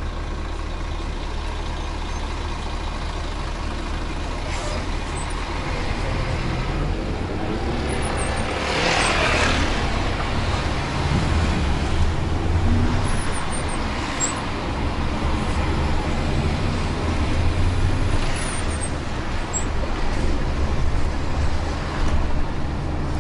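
Bus engine running steadily on the road, a low continuous rumble heard from on board, with a brief hiss about nine seconds in.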